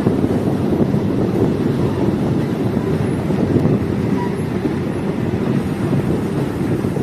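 Steady rumble of a diesel multiple unit railcar on the move, heard from on board, with wind noise over it.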